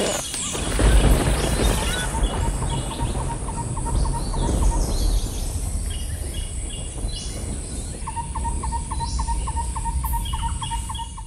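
Outdoor bird ambience: short high chirps and a rapid repeating trill, over a steady low rumble and a thin high hiss.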